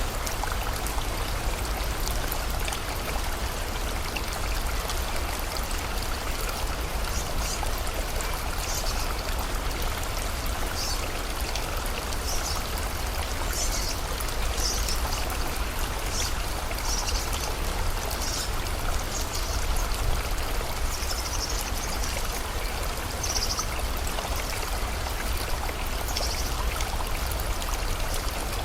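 River water running steadily, with rain. A bird gives short, high chirps over and over from about eight seconds in until near the end.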